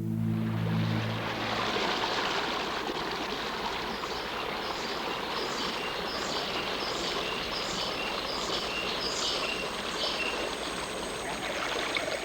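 River water rushing steadily. From about four seconds in, a short high call repeats roughly every three-quarters of a second for several seconds, then stops.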